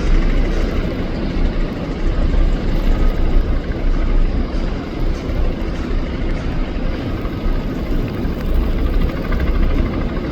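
Helicopter flying, a loud steady rumble heaviest in the low end.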